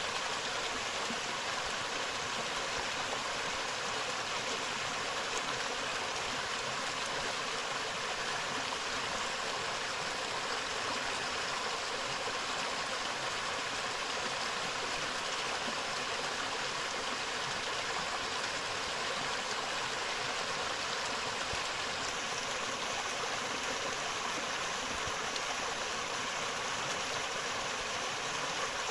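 A forest river flowing steadily over rocks, an even rushing of water.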